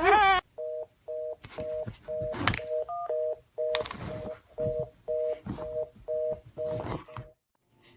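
Telephone busy tone: a two-note beep repeating about twice a second, with a few sharp clicks and knocks over it. It stops about a second before the end. A whining animal cry is cut off in the first half-second.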